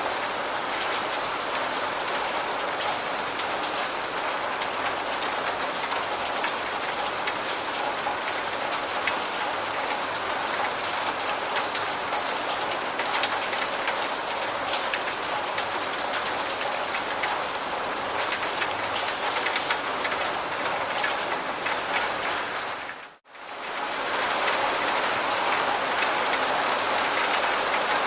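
Steady rainfall, a dense even hiss with many individual drop ticks. About three-quarters of the way through it fades out to near silence for an instant and comes straight back, slightly louder.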